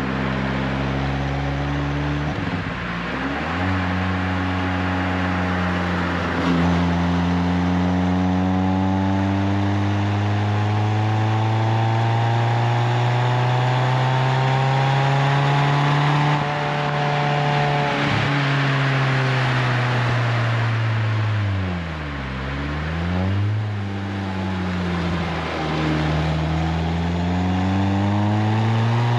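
Renault Twingo RS Gordini's four-cylinder engine and Inoxcar 80mm stainless aftermarket exhaust pulling hard through the gears. The pitch climbs steadily with short drops at each gear change, falls sharply about two-thirds of the way in, then climbs again.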